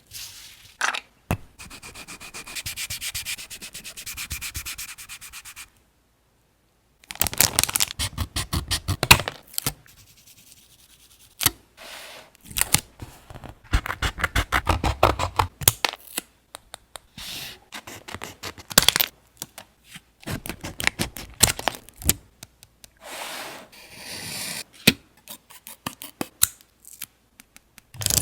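Hands rubbing and handling paper on a journal page, in bursts of quick rubbing strokes mixed with crinkles and taps. There is a brief gap of complete silence about six seconds in.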